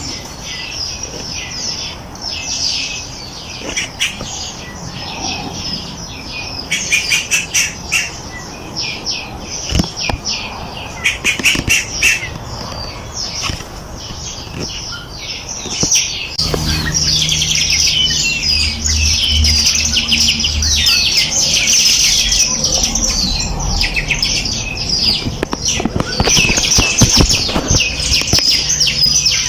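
Many small birds chirping and twittering at once, a dense chorus of rapid high calls. About sixteen seconds in it becomes louder and a low rumble joins underneath.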